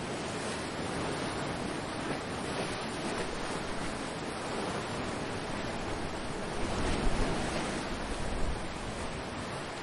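Ocean surf washing in steadily. About seven seconds in, a low rumble of wind buffets the microphone.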